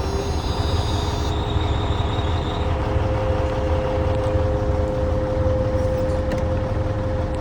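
Diesel engine of an 18-ton Scania horsebox lorry running steadily: a deep, even rumble with a faint steady hum above it.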